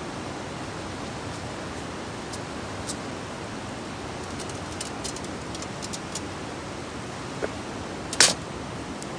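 Campfire burning with a steady rushing hiss. Scattered sharp crackles come from about two seconds in, and one loud snap near the end.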